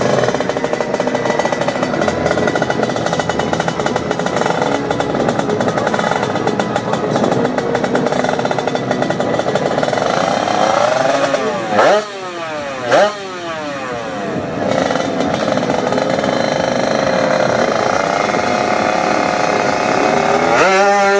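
Drag-race motorcycle engine revving hard while held on the start line. About eleven seconds in it is blipped sharply up and down a few times, and near the end the revs climb quickly as the bike launches.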